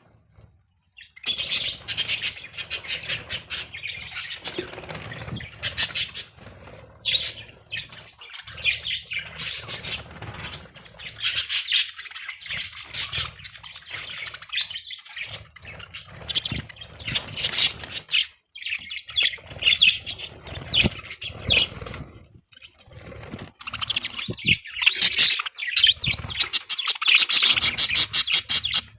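Budgerigars chirping and chattering in quick, dense strings of high chirps, starting about a second in and going on with only brief pauses.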